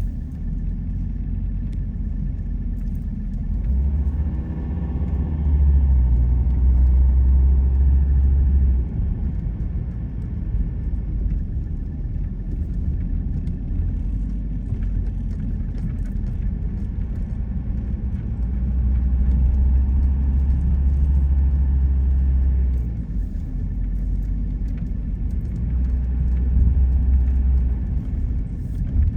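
A car driving: steady road and engine rumble, with a deeper low rumble that swells for several seconds at a time, three times.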